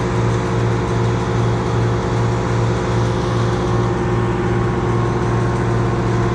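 A large engine idling steadily, with an even low throb and no change in speed.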